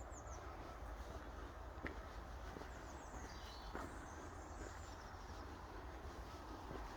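Faint high chirps and calls of small wild birds: a short falling chirp at the start and a run of calls in the middle, over a steady low outdoor rumble with a couple of soft knocks.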